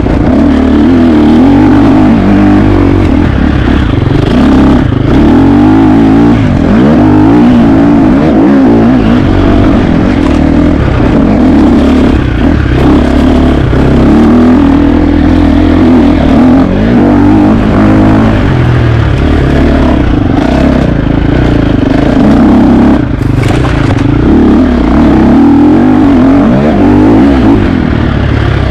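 KTM 350 XC-F dirt bike's single-cylinder four-stroke engine revving up and down constantly as it is ridden hard, with scattered clatter and knocks.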